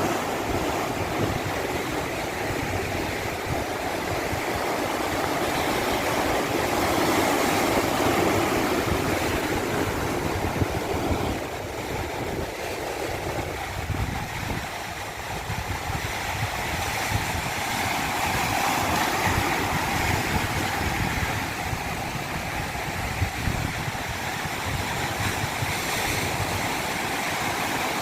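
Continuous rush of flowing water: a steady, even noise with slow, gentle swells.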